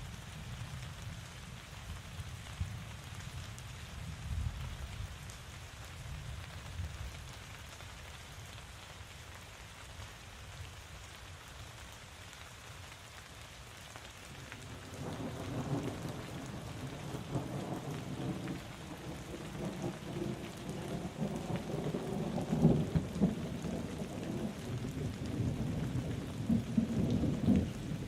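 Steady rain falling, with thunder rumbling under it. The thunder is low and soft at first, then rolls in louder a little past halfway and keeps building, with its strongest cracks in the last third.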